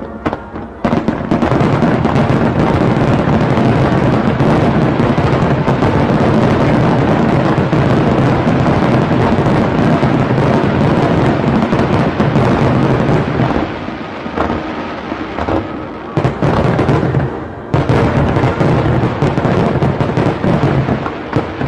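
Fireworks display: a few separate pops, then a dense, continuous barrage of bursts from about a second in that eases off briefly twice in the second half.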